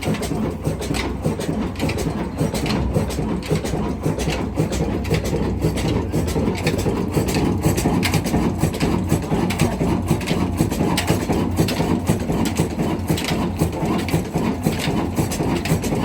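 Diesel engine running after a cold start, with a steady knocking beat over a low rumble.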